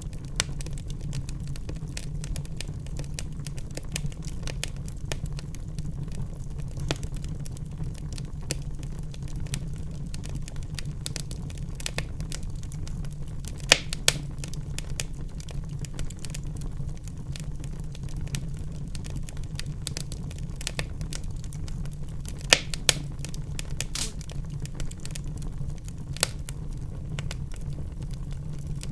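Wood fire burning in a fireplace: a steady low rumble of flames with constant small crackles and a few louder pops, about halfway through and twice more near the end.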